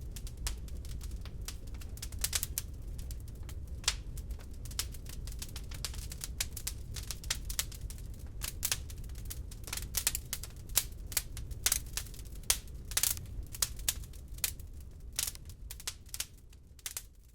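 Wood log fire in a fireplace crackling: irregular sharp pops and snaps over a steady low rumble of the burning, growing quieter near the end.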